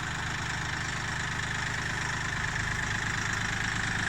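Kioti CK3510 compact tractor's diesel engine running steadily at low revs.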